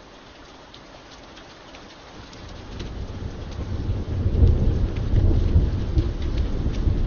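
Steady rain with individual drops ticking sharply. About two and a half seconds in, a low rumble of thunder builds and keeps rolling, louder than the rain.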